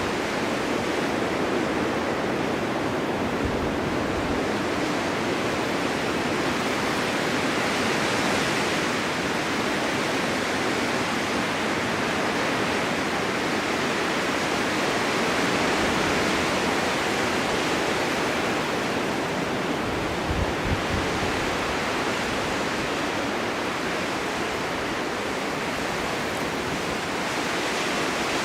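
Blizzard wind driving snow: a steady rushing hiss that swells and eases slowly, with a few brief low buffets about two-thirds of the way through.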